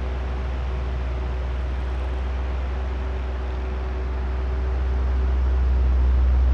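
Oscillating electric fan running: a steady motor hum and airy blade whoosh, swelling louder in the second half as the fan head swings round.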